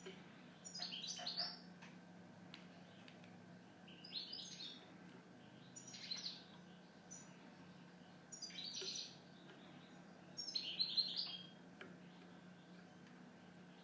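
European goldfinch singing: about five short, high-pitched twittering phrases with pauses of a second or two between them.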